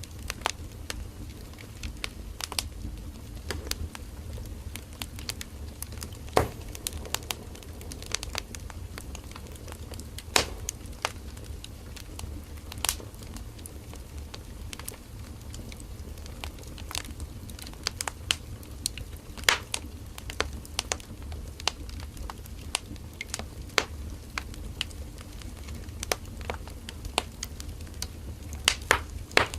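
Firewood burning in a campfire: irregular sharp crackles and pops over a steady low rumble of the fire.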